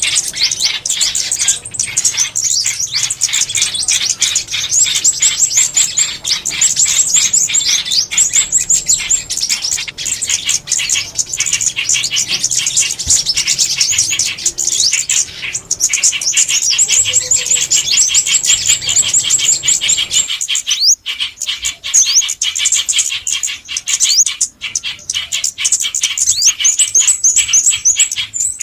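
Songbirds calling in a dense, continuous stream of quick high chirps and short trills, many birds overlapping; about two-thirds of the way through a low background hum drops away.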